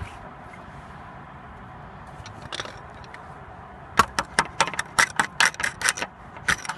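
Rapid metallic clicking, about five or six clicks a second, starting about four seconds in after a stretch of quiet background.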